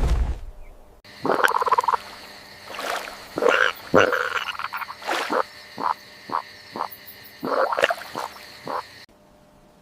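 Frogs croaking: a run of short croaks, some in a quick series of about two a second, over a steady background hiss. They start about a second in, after a brief whoosh, and cut off suddenly near the end.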